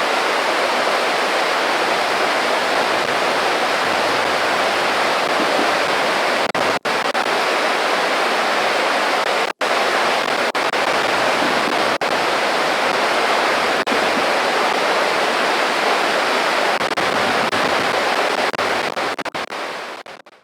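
Small creek babbling, a steady rush of flowing water. It cuts out for an instant twice and fades away at the very end.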